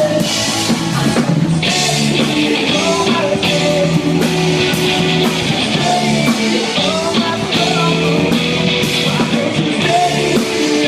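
A rock band playing live: guitar and a drum kit with cymbals, in a steady, loud passage of a song.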